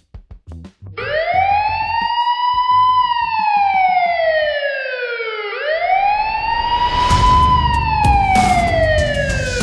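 Police siren wailing: two slow cycles, each rising for about two seconds and falling for about two and a half, the second starting about halfway through. A few sharp knocks sound under the second cycle.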